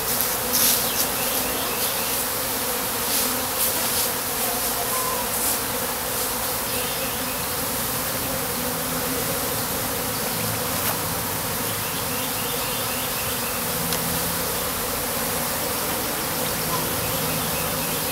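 Honeybees humming steadily in a crowd over the open comb of a top-bar hive, with a few light clicks and scrapes in the first few seconds as a bar is handled.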